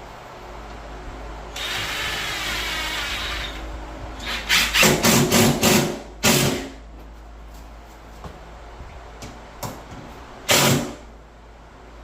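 Power drill running for about two seconds, then a quick run of short, loud bursts, and one more burst near the end.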